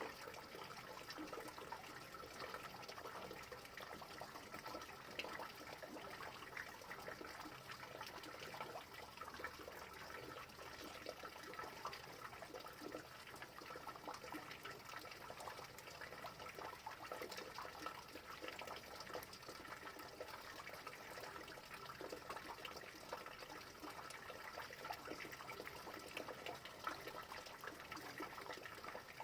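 Steady rain: a soft, dense patter of many small drops.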